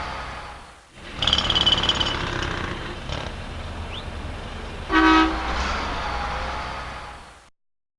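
City street traffic ambience: a steady low rumble of traffic, with a brief high-pitched squeal just after a short dip about a second in. A car horn honks once briefly about five seconds in, and the traffic fades out near the end.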